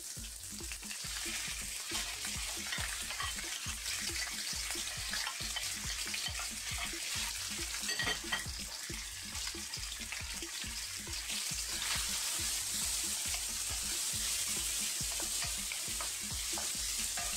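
Chopped bacon, black olives, garlic and onion sizzling steadily in hot olive oil in a wok, stirred around now and then with low knocks.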